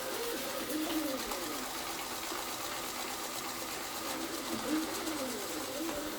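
Rowenta Explorer Serie 60 robot vacuum running, a steady whirr of suction with a lower motor tone that glides up and down several times.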